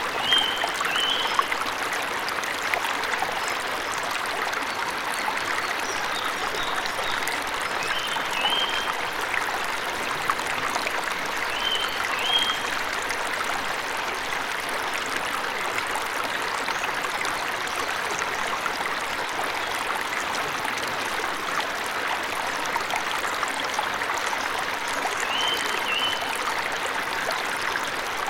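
Waterfall water rushing steadily, with a bird giving short two-note high chirps several times in the first half and once more near the end.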